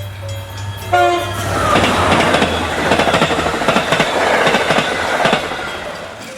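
Train sounds: a short horn toot about a second in, then several seconds of rattling clatter that swells and fades.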